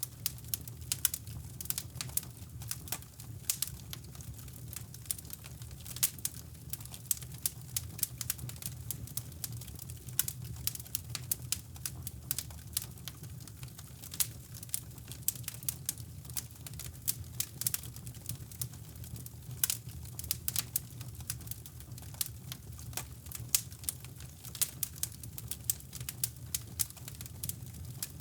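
Wood fire in a fireplace crackling, with many irregular sharp pops and snaps, over a steady low rushing brown noise.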